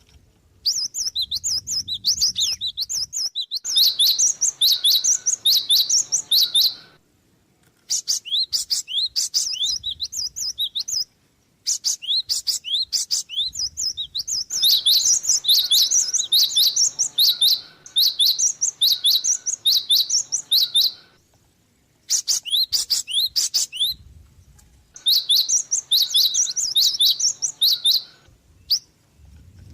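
Java sparrow (gelatik) chirping in quick runs of high notes, each bout lasting a few seconds and broken by short pauses.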